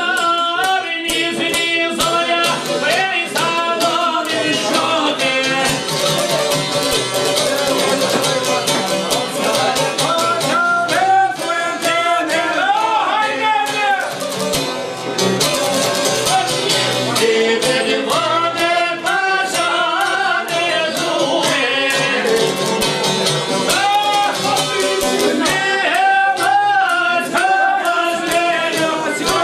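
Albanian folk song with singing, played on a qifteli (two-stringed long-necked lute) with a steady beat.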